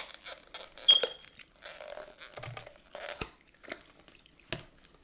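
Food packaging and containers being handled: scattered crinkles, taps and clicks. The loudest is a sharp click with a brief squeak about a second in.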